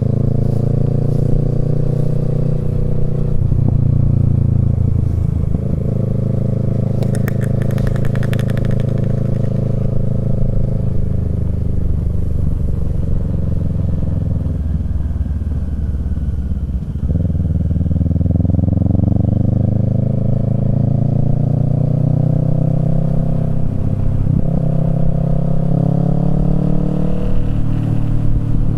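Kawasaki Z650's parallel-twin engine through a Yoshimura Alpha exhaust, ridden hard through the gears. The pitch climbs under acceleration and drops at each shift or roll-off, with a long dip to a low note a little past the middle before it pulls up again.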